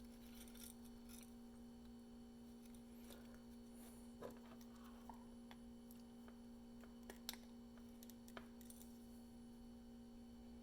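Near silence: room tone with a steady faint hum and a few faint small clicks as a capacitor is handled and its leads are fitted into a circuit board.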